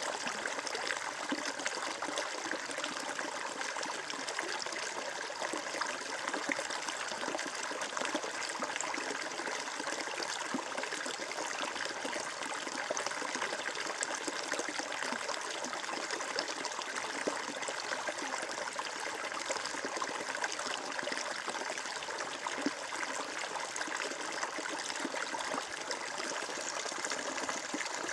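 Flowing water in a small stream, trickling and bubbling steadily.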